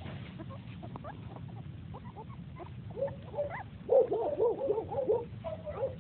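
Three-week-old puppies squeaking and whimpering in many short, high cries that bend up and down, growing into a loud flurry about four seconds in.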